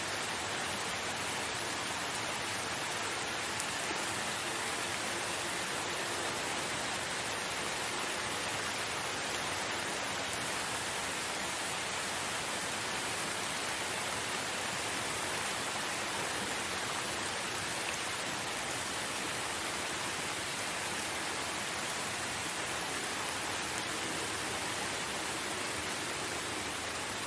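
Steady forest rain: an even, unchanging hiss with no thunder and no single drops standing out.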